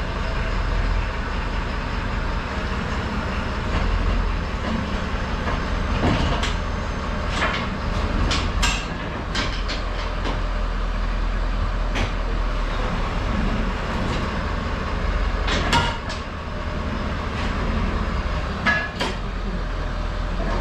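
A vehicle engine running steadily, with scattered sharp metallic clanks and clicks, about eight over the stretch.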